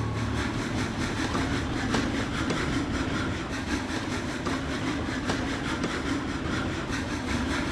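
Train running along the track, a steady rumble with faint regular clicks.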